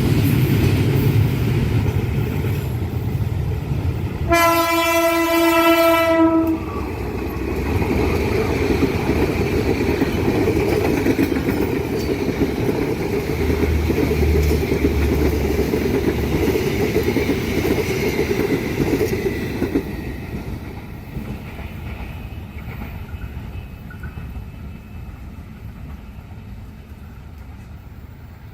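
A train rolling past over the rails, with one long blast of the locomotive horn about four seconds in, lasting about two seconds. The running noise carries on until about twenty seconds in, then fades away.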